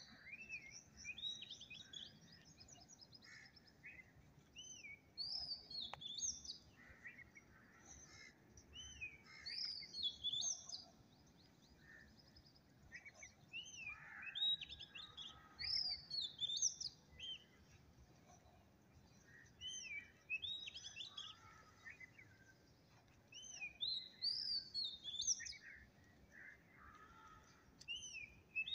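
Birds singing: quick chirping, whistled phrases that come in short bursts every few seconds over a faint background hiss.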